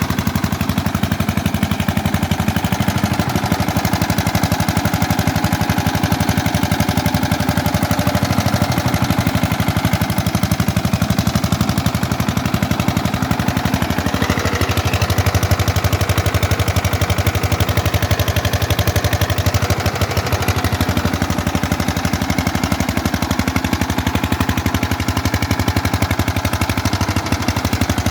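Diesel engine driving a generator, running steadily with a fast, even train of firing beats.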